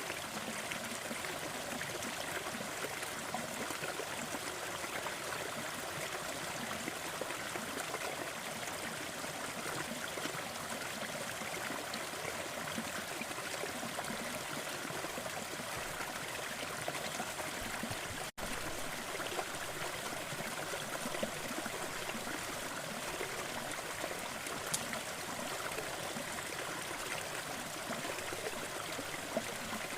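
Fireplace crackling mixed with steady brown noise: an even rushing noise with a few faint crackle pops. The sound drops out for an instant about 18 seconds in.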